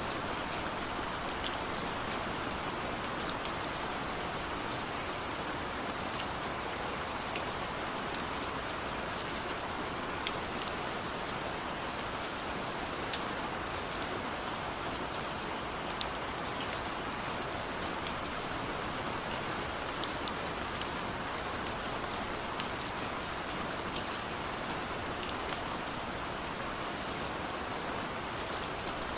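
Steady rainfall: an even hiss of rain with frequent sharp ticks of individual drops striking close by.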